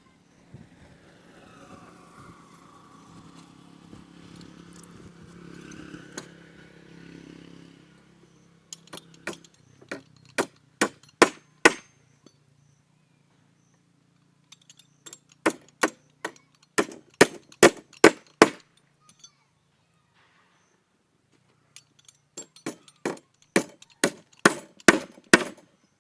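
A hammer striking timber in three runs of quick, sharp blows, about two to three a second, as pieces of a wooden table frame are driven together.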